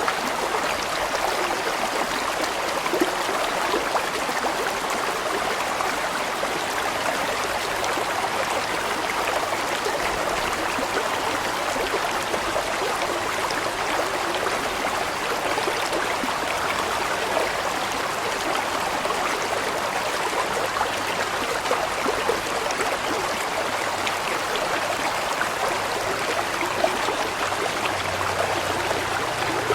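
Large stream rushing and gurgling over rocks, a steady, even flow of water.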